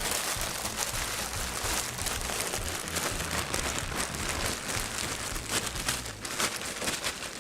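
Plastic bag being crumpled and scrunched in the hands: a dense, irregular crackling that carries on without a break.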